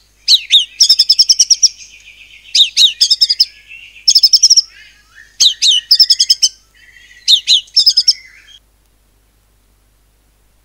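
White-rumped shama (murai batu) singing loudly in repeated phrases, each a sharp falling whistle followed by a rapid run of high notes, its 'cungkok cililin' shooting phrase. The song stops about two seconds before the end.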